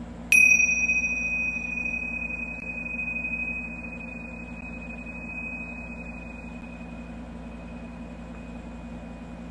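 A single struck bell, as used in sound healing, ringing with one high, clear tone that fades slowly over about nine seconds, over a faint steady low hum.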